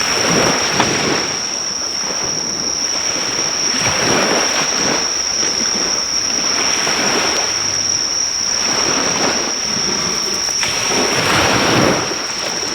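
Sea waves breaking on the shore, a swell of surf every three to four seconds, under the steady high-pitched drone of insects.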